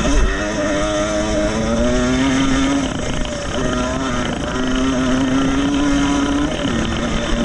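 Small two-stroke motocross bike engine under race throttle, its pitch climbing, holding and dropping several times as it is revved and shifted.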